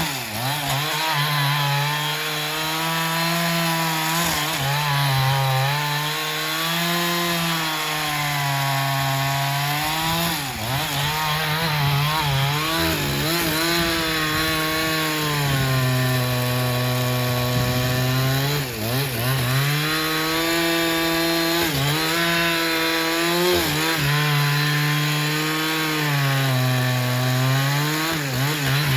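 Sawmill saw cutting through a black teak log, its drive running loud and steady. The pitch sags and recovers over and over as the cut loads it, with sharp dips three times.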